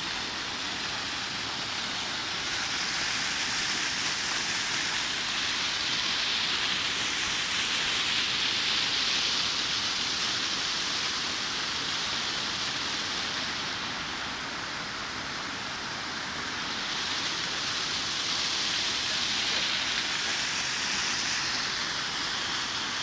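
Waterfall: a steady rush of falling water that slowly swells and eases.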